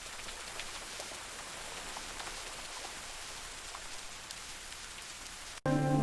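Steady rain falling, an even hiss with scattered individual drops. It cuts out abruptly near the end as music begins.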